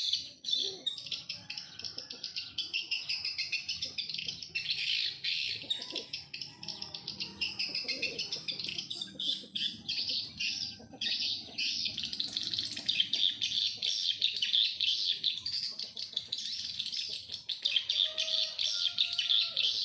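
Small birds chirping and twittering densely and without pause, a high rapid chatter.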